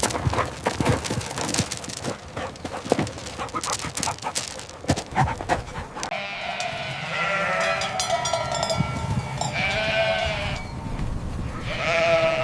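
A rapid clatter of knocks, then goats bleating in long wavering calls. One call comes about halfway through and another near the end.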